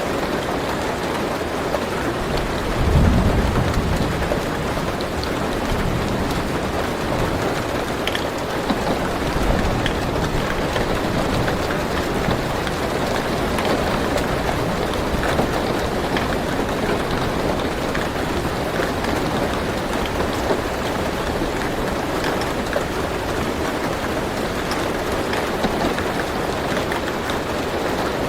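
Steady rain falling on a car's roof, heard from inside the car, with a low rumble of thunder about three seconds in.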